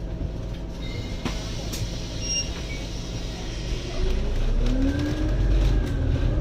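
Scania N280UD double-decker bus heard from on board: the engine runs steadily with a few sharp clicks and a short high beep. About four seconds in it grows louder as the bus pulls away, with a whine that rises and falls in pitch.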